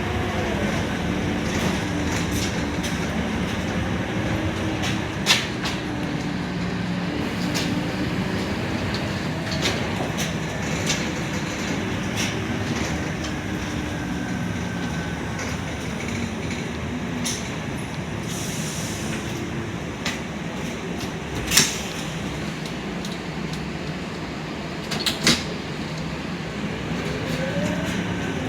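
Scania K230UB single-deck bus heard from inside the passenger cabin while riding: steady engine and road noise, the engine note falling at the start and rising again near the end as the bus slows and pulls away. A few sharp rattles or clicks from the cabin stand out, the loudest about 22 seconds in.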